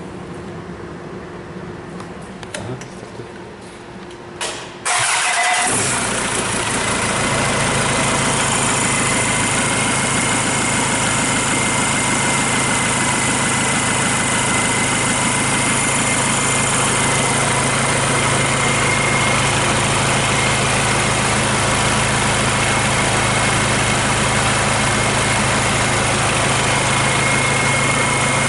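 Kia Sorento D4CB 2.5-litre four-cylinder turbodiesel, run out of the car on a test stand, starting about five seconds in after a few clicks. It then settles into a steady idle with a thin high whine over it.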